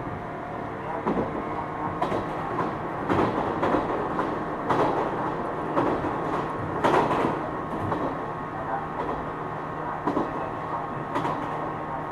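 JR East 455 series electric train, heard from its MoHa 455 motor car with MT54 traction motors, running along the line: a steady drone and hum under irregular clicks and knocks of the wheels over the track, busiest in the middle of the stretch.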